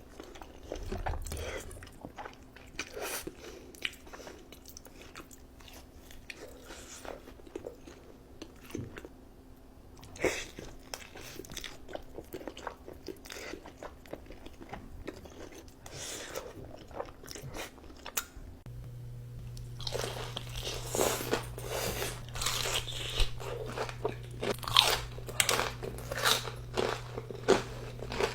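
Close-up crunching and chewing as someone bites into crunchy food, bite after bite. About two-thirds of the way through a steady low hum comes in and the crunches become louder and more frequent.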